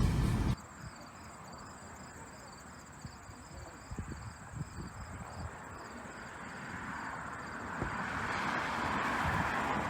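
Insects chirping in a quick high pulse, about three chirps a second, with a few soft knocks. Near the end a rising rush of noise builds up and covers them.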